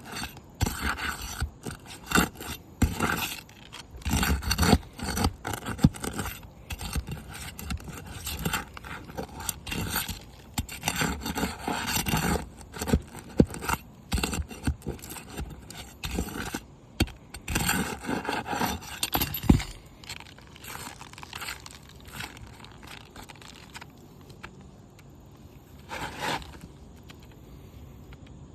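Creased roof shingle being worked loose and removed: repeated irregular scraping and prying strokes against the shingles, with occasional sharper knocks, stopping about twenty seconds in.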